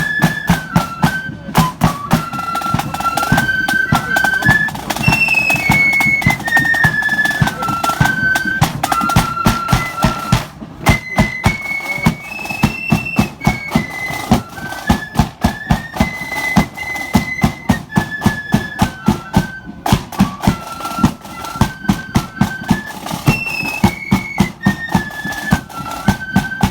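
Marching flute band playing a tune, the flutes carrying a stepping melody over a steady, regular beat of drums.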